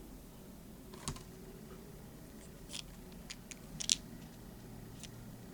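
A few light, sharp clicks and taps of small plastic toy parts being handled, the loudest a little before the four-second mark, as a die-cast toy truck's plastic cage is fiddled with.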